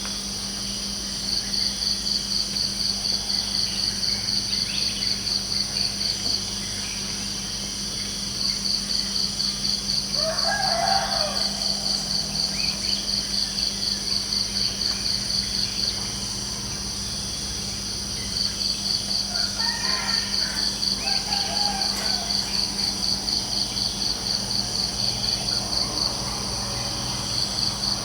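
Crickets trilling in long runs of fast pulses that stop and start again, over a steady high insect chorus. A rooster crows about ten seconds in and again around twenty seconds in.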